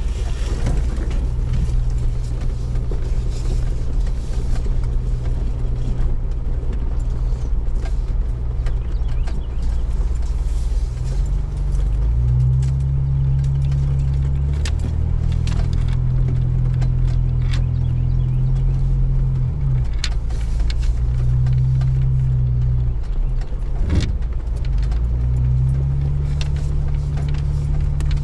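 A vehicle engine running, its low hum stepping up and down in pitch several times, with a few sharp clicks about two thirds of the way through.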